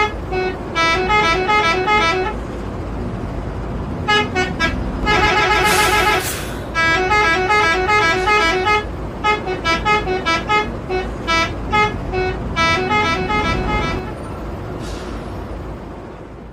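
Indonesian 'telolet' musical bus horn playing quick runs of short notes like a tune over the bus engine's rumble, with a louder held blast about five seconds in.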